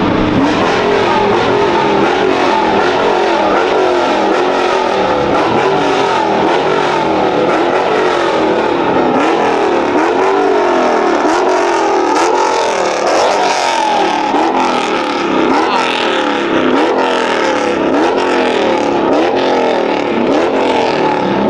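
Car engine revving hard over and over as a car is slid around. The pitch swings up and down roughly once a second, over a steady wash of engine and tyre noise.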